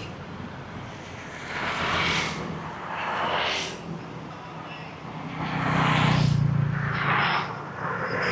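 Road traffic on a city street: vehicles passing one after another, each swelling and fading, the longest and loudest with a low engine hum about six seconds in.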